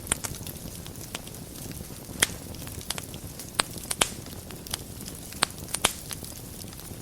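Wood fire burning in a fireplace, a steady low rush of flames under irregular sharp crackles and pops, a handful of them louder than the rest.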